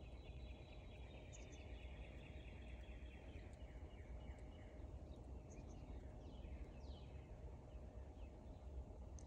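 Faint bird song: a thin trill that falls slowly in pitch over about three seconds, then a few short chirps a couple of seconds later, over a low steady rumble.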